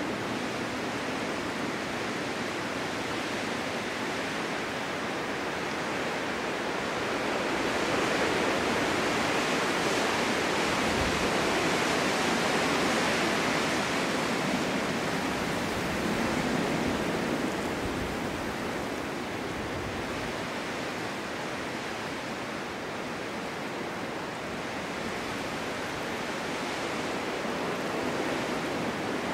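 Wind blowing through a snow-covered forest during a snowstorm, a steady rushing that swells in a gust between about 7 and 15 seconds in and then eases.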